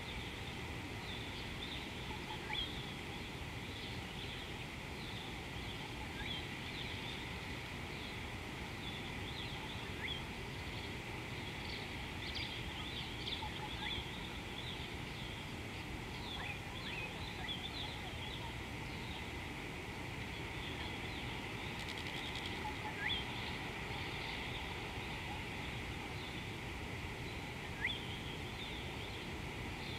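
Birds calling: many short, high chirps scattered over steady low background noise, with a few louder sharp notes standing out in the second half.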